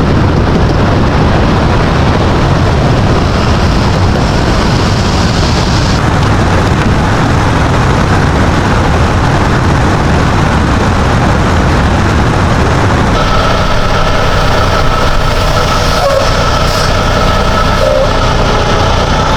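Loud, steady vehicle running noise, a heavy low rumble of road and engine. About thirteen seconds in, a set of steady droning tones joins it.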